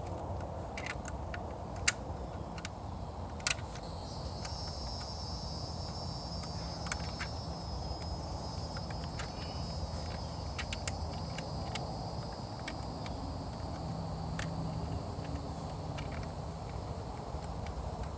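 Scattered metal clicks and taps of hand tools and nuts on the jet pump's mounting studs, with two sharper knocks early on. About four seconds in, a steady high-pitched insect drone starts and holds.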